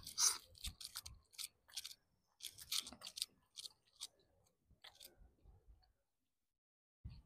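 A person biting into and chewing a fried chicken burger close to the microphone: a run of short chewing clicks and smacks, loudest in the first few seconds, that thin out and stop about six seconds in.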